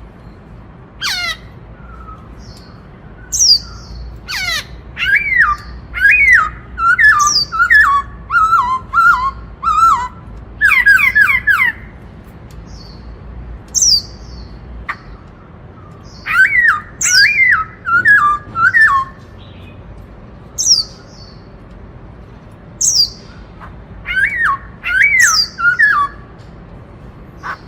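Black-throated laughingthrush singing loud phrases of quick, gliding whistled notes, in three main bouts separated by pauses, with short high chips in between.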